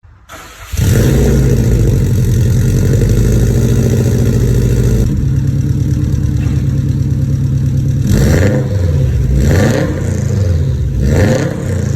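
2003 Subaru STI's turbocharged flat-four engine heard through a custom 3-inch turbo-back stainless exhaust with a Varex muffler: it starts up after a brief crank, idles steadily, then is revved three times near the end, the pitch rising and falling each time.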